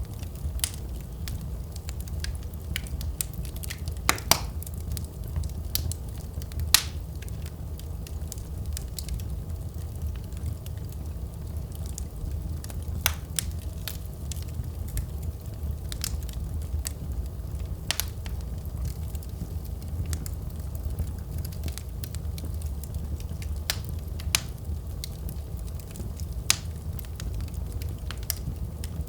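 Wood fire in a fireplace crackling: a steady low rumble of the flames with scattered, irregular sharp pops, a few louder ones about four and seven seconds in.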